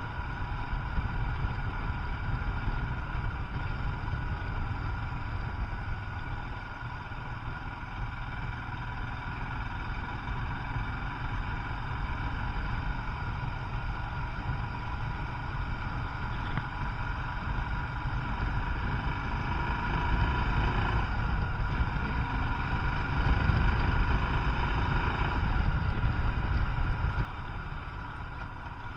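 Royal Enfield Himalayan motorcycle engine running steadily on the move, over a low rumble. It grows louder for a while after about twenty seconds, then drops suddenly near the end.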